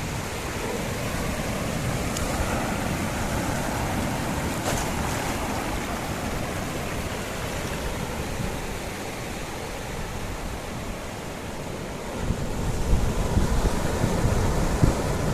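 Ocean surf washing onto a sandy beach, swelling and easing. In the last few seconds, wind buffets the microphone with gusty rumbles.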